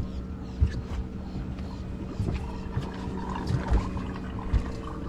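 Boat engine idling with a steady low hum, broken by four dull low thumps.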